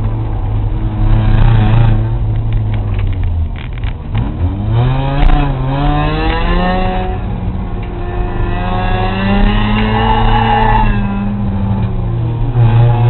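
Race car engine running hard under racing load. Its pitch dips about four seconds in, then climbs steadily as the car accelerates, holds high, and falls away again near the end as the driver lifts.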